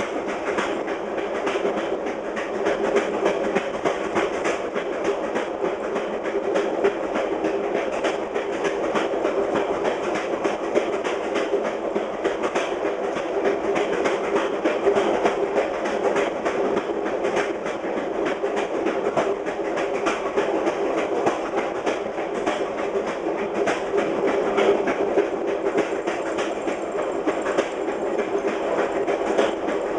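Fast passenger train's wheels clicking over jointed rail, a steady run of rail-joint clacks over a continuous rolling rumble, heard from the rear of the train.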